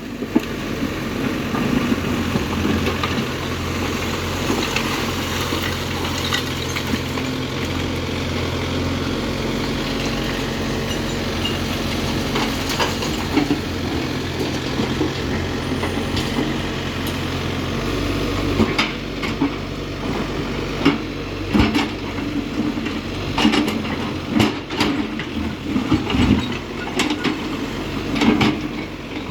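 Case backhoe loader's diesel engine running steadily while loading demolition rubble. From a little past halfway, a string of sharp knocks and clatter as rubble strikes the bucket and the truck bed, with the engine note shifting.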